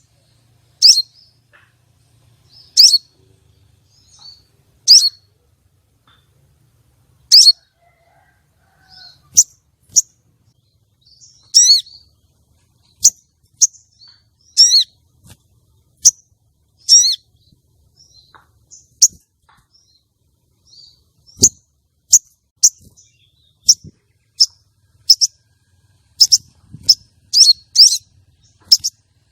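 Female sogon (crimson sunbird) giving sharp, high, short chirps, spaced a second or two apart at first and coming faster and closer together near the end: a female's call of the kind used to lure and arouse male sogon. A single low knock sounds about two-thirds of the way through.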